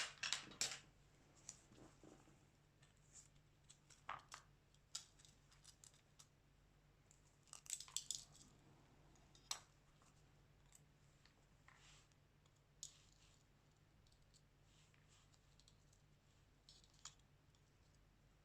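Faint, scattered clicks, taps and short scrapes of small repair tools working on a Xiaomi Redmi 9A smartphone during disassembly. They come in small clusters near the start and around eight seconds in, then thin out.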